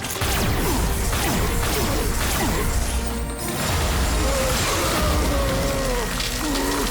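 Fight sound effects, crashes and impacts, over a dramatic score. The impacts are densest in the first few seconds, and the sustained tones of the score come forward in the second half.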